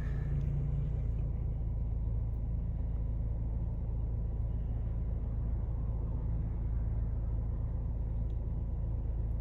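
Parked vehicle's engine idling: a steady low rumble.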